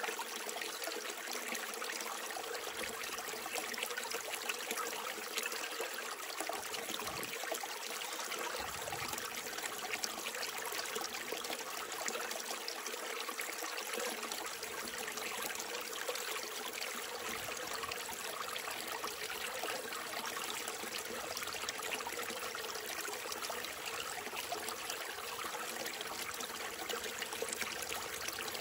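Small mountain stream trickling and babbling over rocks, a steady, unbroken running of water.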